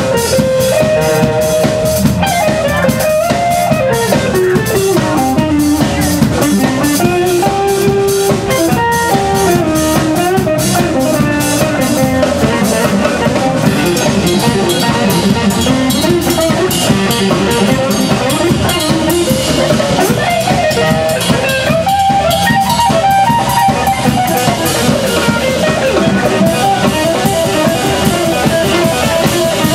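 Live blues band playing: a guitar lead line that slides and bends between notes over a steady drum kit beat.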